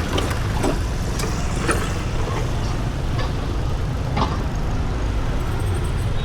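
Street ambience: a steady low rumble of traffic, with several short clicks and knocks scattered through it.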